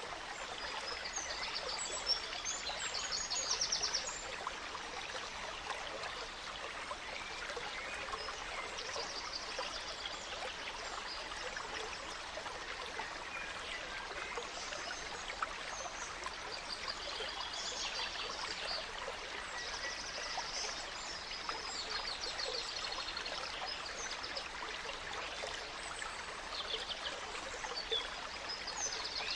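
Small stream running and trickling steadily, with songbirds singing short, repeated phrases over it every few seconds.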